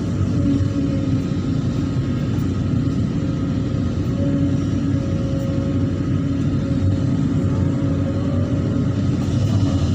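Excavator's diesel engine running steadily, with a low rumble and a steady hum over it.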